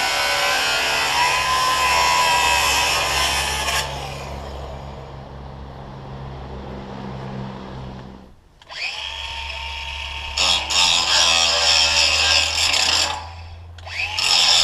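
Power-tool-like machinery running loud in short cut-together clips, with a steady low hum under it and a rise in pitch as it spins up twice.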